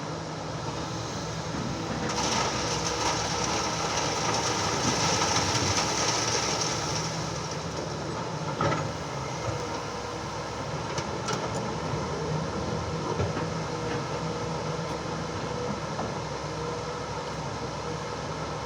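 Excavator engine running steadily, with a high whine from about two to seven seconds in and a few sharp metallic clanks after that.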